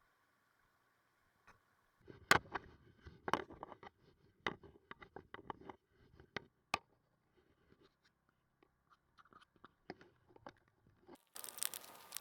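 Scattered faint clicks and knocks with low scraping, starting about two seconds in. A loud hissing noise begins near the end.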